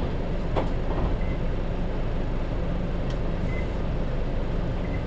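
Hino Rainbow II city bus with its J07E four-cylinder diesel running, heard from inside the cabin: a steady, even engine rumble with a short click about half a second in.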